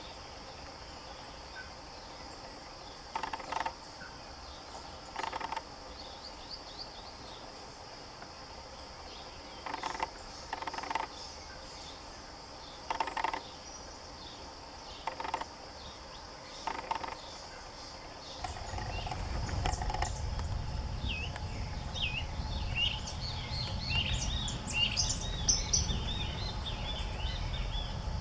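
Wild outdoor ambience: a steady high insect buzz with short rasping sounds every second or two. About two-thirds of the way in, a low rumble rises and small birds begin chirping rapidly.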